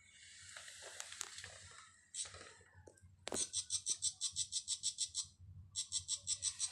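A bird giving fast runs of short, harsh, high-pitched chatter notes, about eight a second, in two runs of about two seconds each, the agitated calling of an 'angry' bird. Before them, for the first two seconds, there is a breathy hissing noise.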